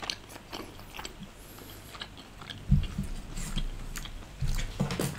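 Close-miked chewing of a mouthful of food: wet mouth clicks and smacks throughout, with a louder low sound about halfway through and again near the end.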